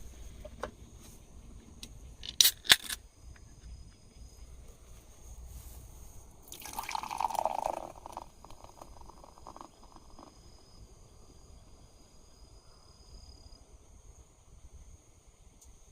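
A couple of sharp clinks, then liquid poured into a cup or glass for about a second and a half, trailing off into a few drips.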